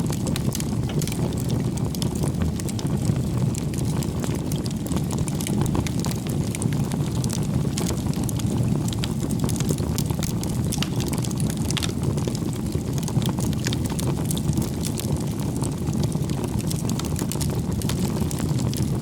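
Wood bonfire burning: a steady low rumble of flame with frequent small crackles and pops from the burning firewood.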